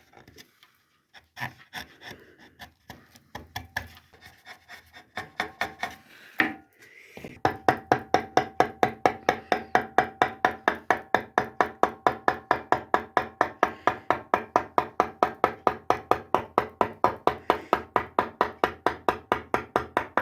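Hand tool working a walnut carving: light, irregular scraping at first, then from about seven seconds in a steady run of quick back-and-forth strokes, several a second, as with sanding or rasping.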